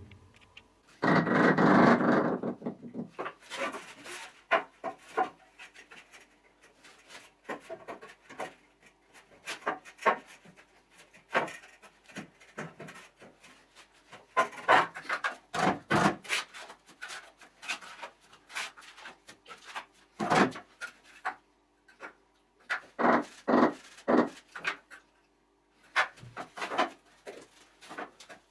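Bricklaying work: bricks and tools handled, with scattered knocks and clicks and rubbing scrapes on brick. A louder scrape comes about a second in, and clusters of knocks come around the middle and near the end.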